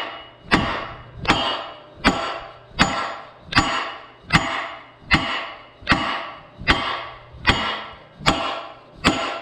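Hammer blows on metal in a steady rhythm, about twelve strikes at roughly one every three-quarters of a second, each ringing briefly, as a pin or bushing is driven on heavy equipment.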